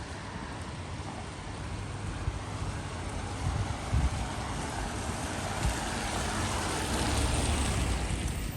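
A vehicle passing on a wet street, its tyre hiss swelling over several seconds and falling away near the end, with wind rumbling on the microphone.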